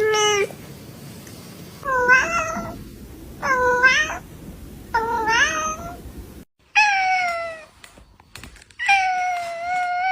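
Domestic cat meowing over and over, about six meows in a row with short pauses, the later ones longer and drawn out: a cat's persistent grumbling, complaining meows.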